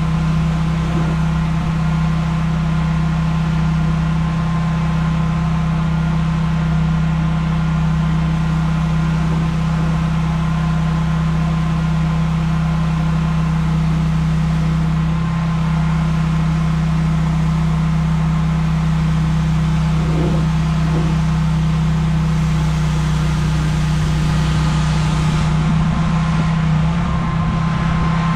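Pressure washer's engine running steadily at a constant pitch, with an even hiss over it.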